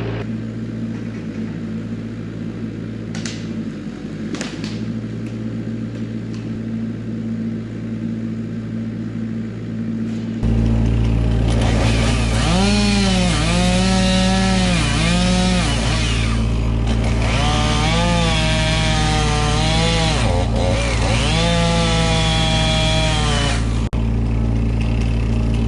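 A machine engine runs steadily for about ten seconds, then a chainsaw comes in loud, cutting into a tree, its pitch dipping and recovering again and again as the chain loads up in the wood.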